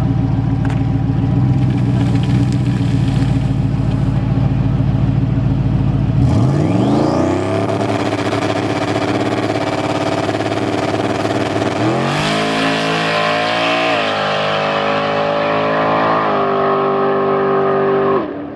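Turbocharged 5.0 V8 of a Mustang making a drag pass: a low, steady rumble, then a sharp rise in revs as it launches. The engine climbs through the gears with a pitch drop at each shift, about halfway through and twice more, then stops suddenly near the end.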